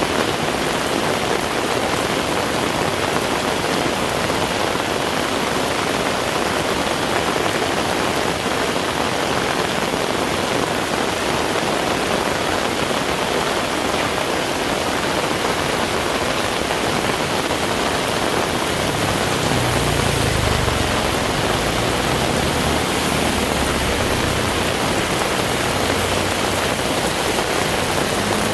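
Heavy rain falling steadily, a dense, even hiss. In the last third a low, wavering rumble joins it.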